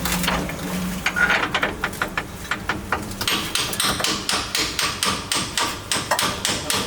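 A hammer striking repeatedly. The blows come irregularly at first, then settle into a quick, even pace of about four a second.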